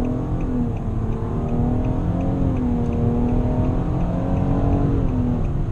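2017 Nissan Maxima's 3.5-litre V6 droning at highway speed, heard from inside the cabin over heavy road and tyre rumble. The engine's pitch holds fairly steady, rising and dipping slightly, then drops away near the end.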